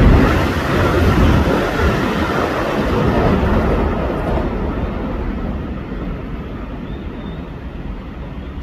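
Keio Sagamihara Line electric train moving away from the platform, its rumble and wheel noise on the rails fading steadily.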